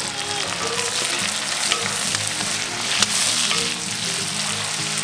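Onions and habanero peppers sizzling as they fry in oil in a black pot over a wood fire, stirred with a wooden utensil. A sharp tap sounds about three seconds in.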